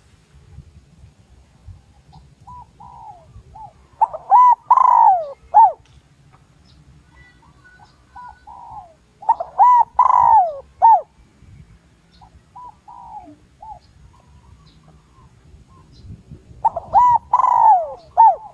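Spotted dove cooing in three loud phrases about six or seven seconds apart, each a few short coos and one longer drawn-out note, with softer coos between the phrases. It is a decoy dove's call, used to draw wild doves in to fight.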